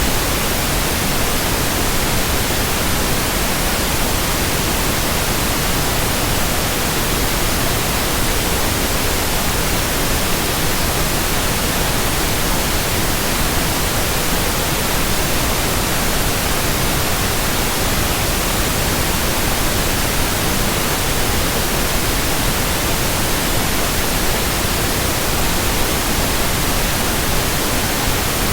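Steady, unvarying white noise: an even hiss across all pitches, with no rhythm or change.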